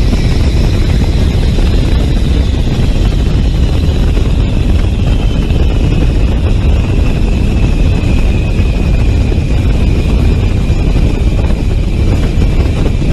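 Jet aircraft noise: a loud, steady low rumble with a high turbine whine that slowly falls in pitch.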